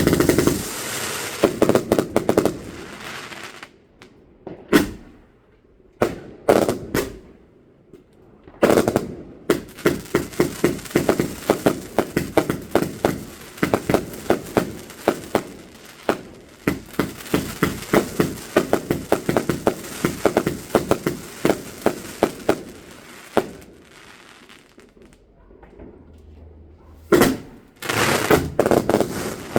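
Fireworks going off: a loud bang at the start, a few separate reports, then a long run of rapid sharp bangs, several a second, for about fifteen seconds. Another burst of bangs starts near the end.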